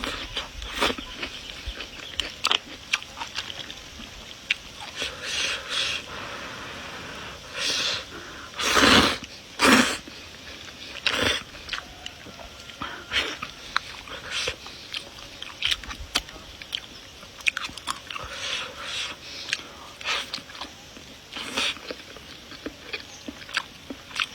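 Close-miked eating of noodles and flowering cabbage stems: chewing and biting with many short wet clicks and crunches. Two louder drawn-out noisy sounds come about nine and ten seconds in.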